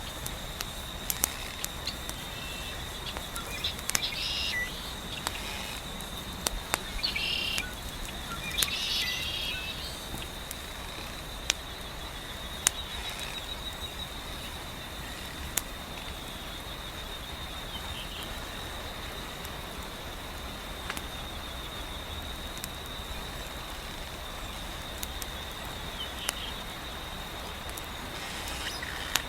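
Fire crackling with scattered sharp pops, over a soft steady hiss of wind. A steady high insect trill runs throughout, and a few bird chirps come in the first ten seconds.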